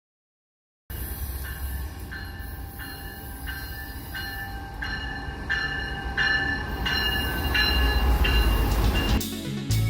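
A passenger train running on the rails, its rumble growing louder, with a high ringing tone that repeats about twice a second. The sound starts abruptly about a second in and drops away shortly before the end.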